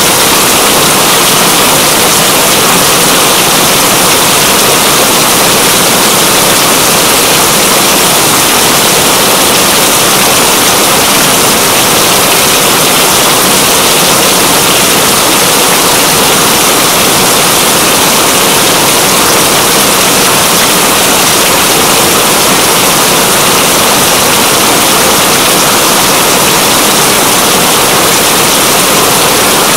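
Steady rain, a dense even hiss that does not change.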